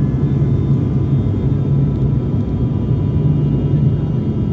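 Steady drone of an airliner's engines heard from inside the passenger cabin in flight: a constant low rumble with faint, steady whining tones above it.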